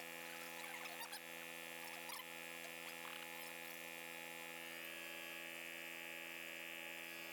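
Faint, steady electrical hum with a few faint ticks.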